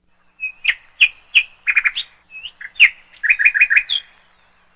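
A bird singing: a string of sharp chirps followed by quick runs of repeated notes, ending on a rising note about four seconds in.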